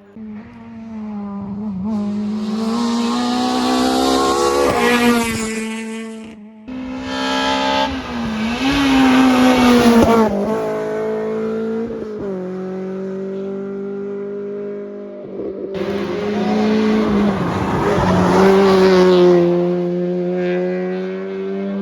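Rally cars driven hard on a stage, engines revving up and dropping back through gear changes, with tyre noise during the loudest passes. The sound cuts abruptly between separate shots twice.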